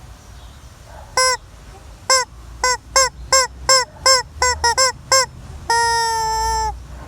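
Rubber screaming-chicken toy being squeezed: a single short squawk, then a quick run of a dozen or so short squawks that speed up, ending in one long held squawk lasting about a second.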